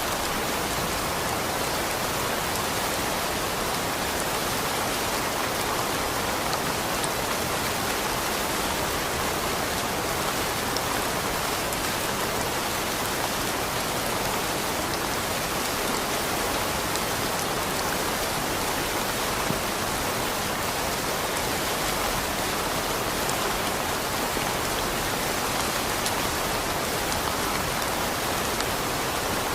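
Steady, even rain falling, a dense hiss of drops with faint scattered patters.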